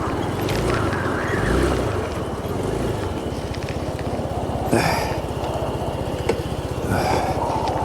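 Motorcycle engine running at low revs, the engine note rising and falling for the first few seconds, then idling with an even, fast pulse. Two short rushes of noise come just under five seconds in and near the end.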